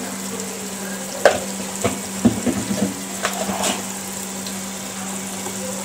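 Onion-tomato masala frying and sizzling in oil in an aluminium pressure-cooker pot, with a few light knocks and clatters of a wooden spoon against the pot between about one and four seconds in.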